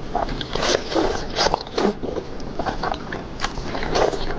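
A person biting and chewing seafood close to the microphone: a quick, irregular run of short smacks and crunches.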